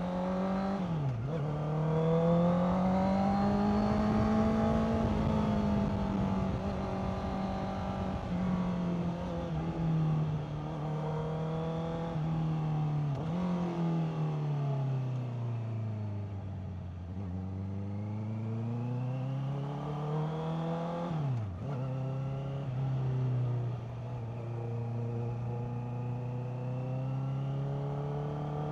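Honda CBR650R's inline-four engine running on the move, its pitch rising and falling with the throttle. It has a few quick drops and recoveries like gear changes, and a long slow fall near the middle before it pulls up again.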